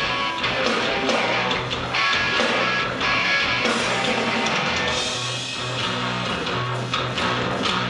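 Live noise-rock band playing: electric guitar and bass holding low sustained notes over a drum kit, loud and dense throughout.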